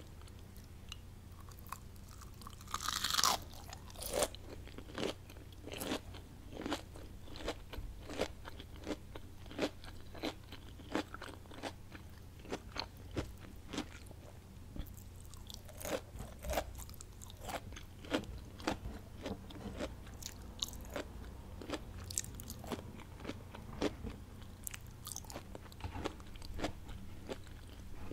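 Close-miked eating of crunchy fried onion rings: a loud bite about three seconds in, then steady crunchy chewing, roughly two crunches a second.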